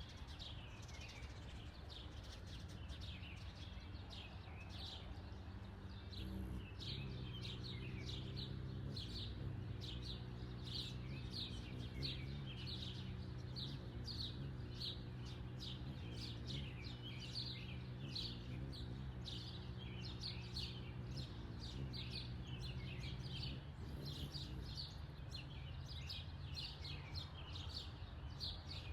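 Backyard birds chirping continuously in many short, rapid calls. From about six seconds in, a low steady motor hum runs under them and fades out near the end.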